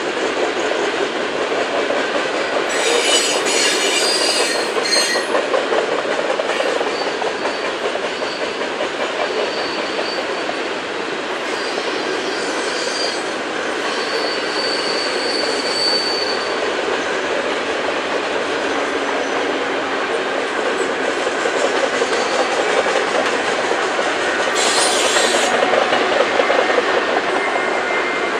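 Covered hopper cars of a long freight train rolling past: a steady rumble of steel wheels running on the rails. A thin, high wheel squeal comes and goes, and there are two brief high screeching bursts, about three seconds in and near the end.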